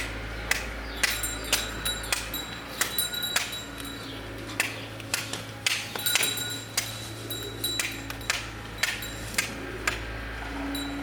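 Repeated sharp knocks with a short metallic ring, about two a second and unevenly spaced, over a steady low hum.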